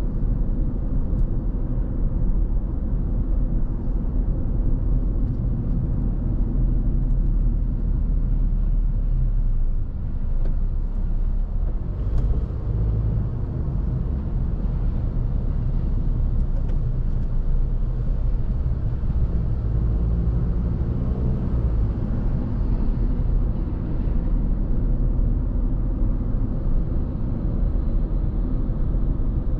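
Car driving on the road: a steady low rumble of tyre and engine noise.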